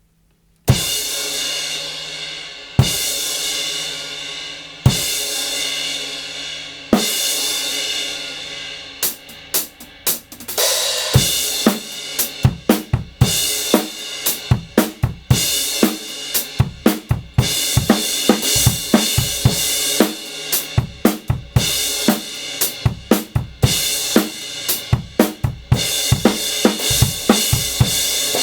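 Kingdo Artist Classic Raw Bell 18-inch crash cymbal struck four times alone, about two seconds apart, each crash ringing out and slowly fading. From about nine seconds in it is played with a drum kit beat, many quick hits in a steady rhythm.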